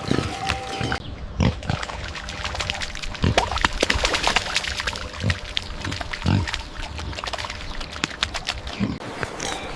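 Farm animals giving short low grunts every second or two, over scattered clicks and rustling.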